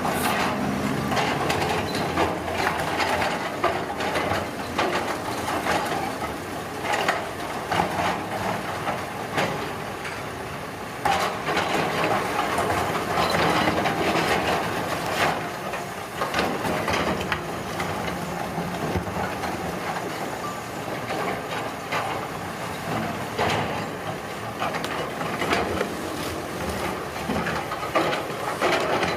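Heavy road-construction machinery working: a continuous mechanical din, broken throughout by clanks, knocks and crunching, getting louder about eleven seconds in.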